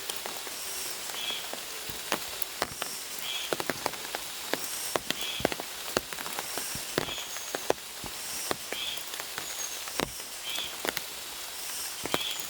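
Rain falling in a forest: a steady hiss with many sharp, irregular drop hits. A short high call repeats about once a second.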